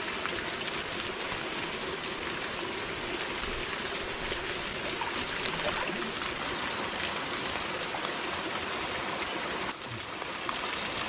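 Steady splashing of water pouring into a hot spring pool from a hot-water pipe and a small warm waterfall.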